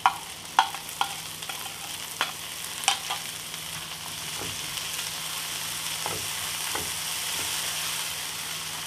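Chopped onions, green chillies and freshly added tomatoes sizzling in oil in a nonstick pan while a wooden spatula stirs them. A few sharp knocks of the spatula come in the first three seconds, then a steady sizzle.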